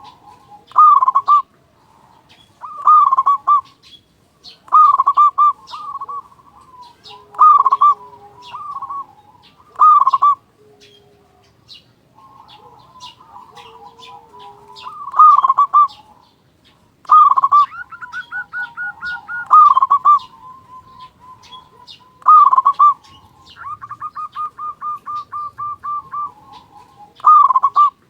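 Zebra dove (perkutut) singing its loud cooing song, one phrase about every two seconds. Twice the phrase is drawn out into a fast run of rapid repeated notes. Faint high chirps sound behind it.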